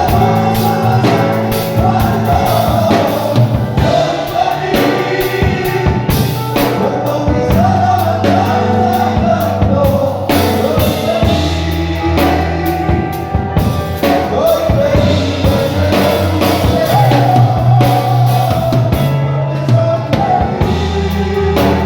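Worship music: voices singing a song over steady bass and a drum kit.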